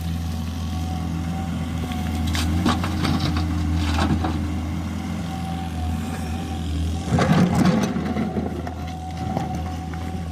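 Volvo 210E excavator's diesel engine running steadily under work, with scattered knocks and clanks and a louder, rough burst of noise about seven seconds in.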